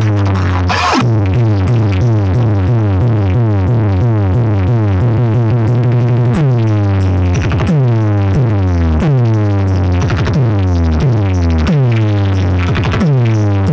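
Loud electronic dance music over a big DJ sound-box rig, with heavy bass notes and a synth sweep that falls in pitch again and again, about twice a second in the second half.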